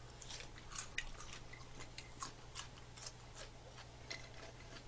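Faint chewing of rice and curry, with soft irregular mouth clicks and smacks.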